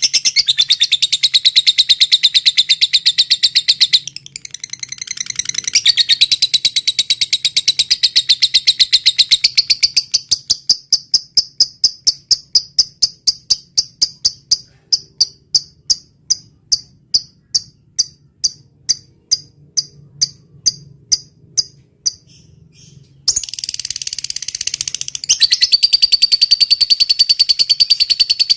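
Recorded songbird calls played as a training track: long, rapid high-pitched trills, then from about ten seconds in a run of separate sharp chirps at about three or four a second, a short harsh burst, and the rapid trill again near the end.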